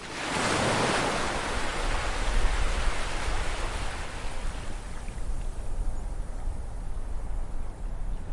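Ocean wave breaking and washing up the shore: a hissing rush that swells suddenly at the start, then slowly fades away over several seconds, with a steady low surf rumble underneath.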